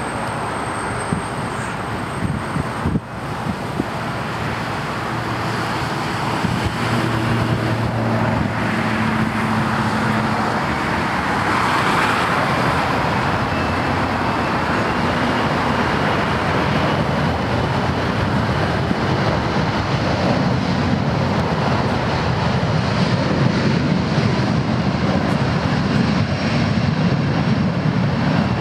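Boeing 737-500's CFM56 turbofan engines running at takeoff thrust as a steady jet roar with a faint high whine, building over the first several seconds and then holding steady.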